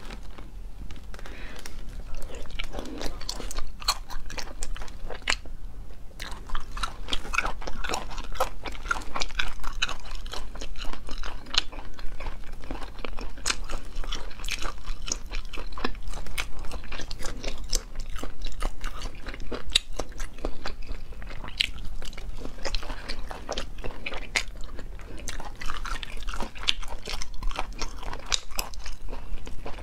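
Close-miked chewing of sea snails in chili oil, pulled from their shells by hand, with many quick wet clicks and crackles.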